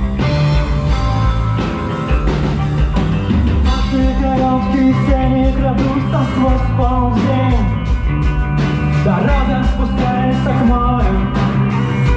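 A rock band playing live, with a psychedelic rock sound: steady drum strikes, sustained bass notes and a melodic line that bends up and down through the middle.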